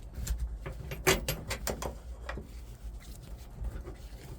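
Hands working a copper vacuum line loose, with a run of short clicks, knocks and rubbing, most of them between about one and two and a half seconds in.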